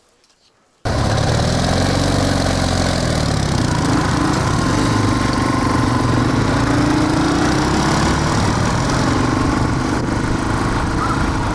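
Motorcycle engine running on the move, its pitch rising and falling as the revs change. It comes in suddenly about a second in, after near quiet.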